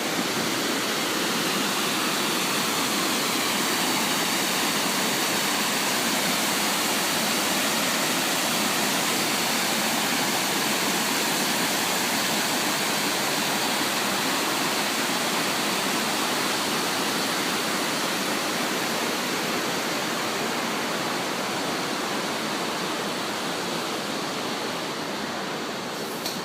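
River rapids rushing, a steady hiss of water that eases off slightly over the last several seconds.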